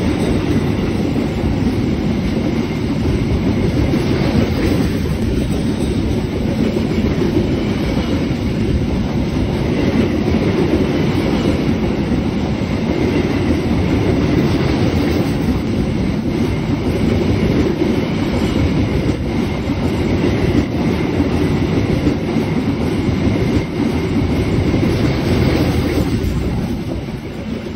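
Train wheels running on the rails: a loud, steady rumble with clickety-clack over the rail joints, dying away near the end.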